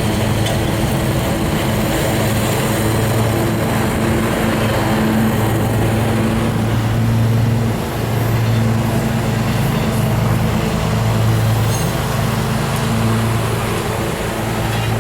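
Lawn mower engine running close by, a steady loud hum that wavers and dips briefly about eight seconds in as it works the grass.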